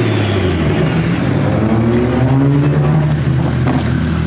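Car engine running at low revs, its pitch rising and falling as it is revved lightly.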